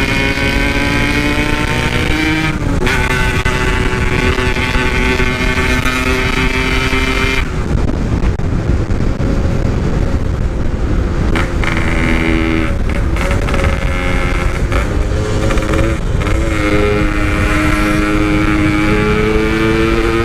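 Yamaha RX-King's two-stroke single-cylinder engine under way through a loud aftermarket exhaust, rising in pitch as it accelerates and dropping sharply at gear changes, with a spell of lower, uneven running off the throttle in the middle. Low wind rumble runs underneath.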